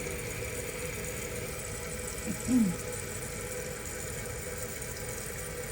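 New toilet fill valve refilling the tank: a steady hiss of running water with a faint steady hum.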